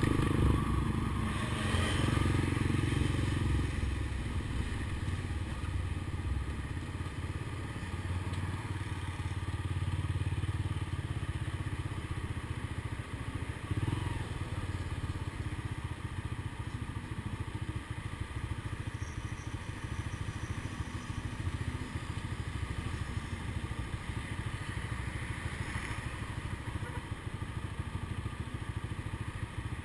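Honda CBX 200 Strada's single-cylinder four-stroke engine running, louder for the first few seconds, then settling into a steady, lower running note.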